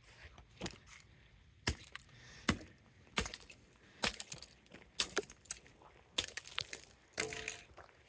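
An air-conditioner remote control being broken apart: a string of sharp, irregularly spaced cracks and knocks of its plastic casing, a few with a short ringing tail near the end.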